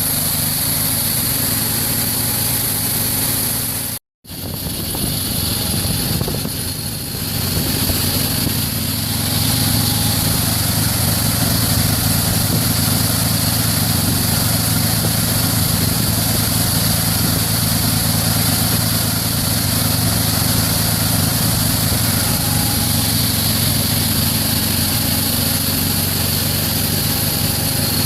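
An engine running steadily with a low, even drone, cut off abruptly for a moment about four seconds in before it resumes.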